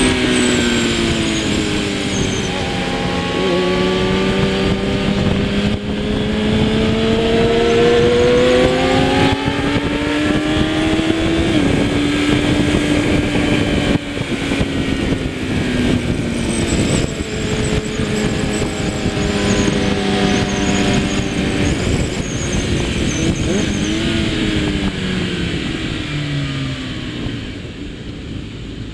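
Kawasaki ZX-10R superbike's inline-four engine at racing speed, heard over wind rush. The engine note climbs steadily for about ten seconds, then steps down and falls away in stages, with the sound easing off near the end.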